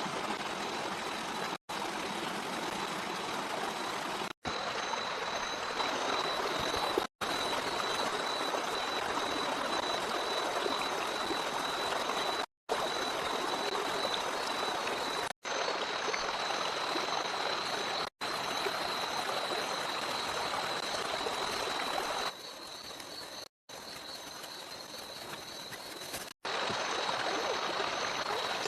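Steady rushing water noise with a thin, steady high tone above it. It drops out abruptly several times at edit cuts and is quieter for a few seconds about two-thirds of the way through.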